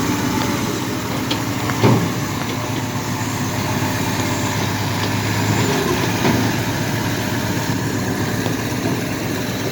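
Vehicle engines running steadily, with a single knock about two seconds in.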